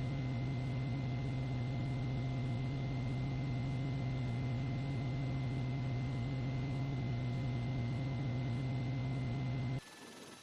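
Steady engine drone with a strong low hum, unchanging throughout, cut off abruptly near the end.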